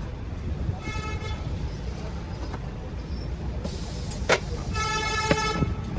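Steady traffic rumble with two vehicle horn toots, a short one about a second in and a longer one near the end, and a single sharp knock between them.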